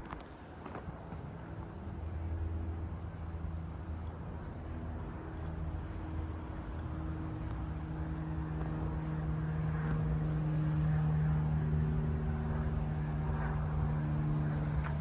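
Toyota Hiace 4WD turbo diesel engine idling steadily, a low hum that grows a little louder about halfway through.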